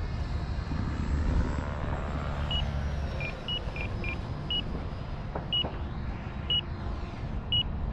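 Electric ducted fan of a 70mm EDF radio-controlled F-16 jet whining in flight over a low rumble, its high pitch sliding down about two seconds in as the throttle comes back. Short electronic beeps come through, a quick few then about one a second.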